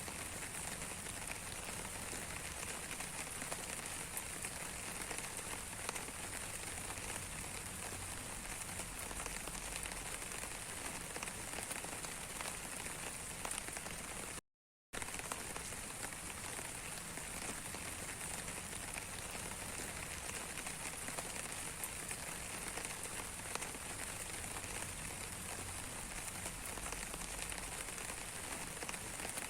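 Steady rain falling on a surface: an even hiss dotted with many small drop ticks. The sound cuts out completely for about half a second midway.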